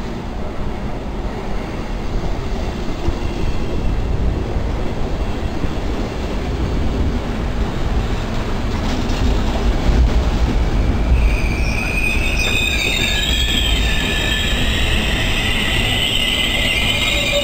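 Regional passenger train running into the platform with a low rumble of wheels on rails. About two-thirds of the way through, several high squealing tones set in as it brakes towards a stop.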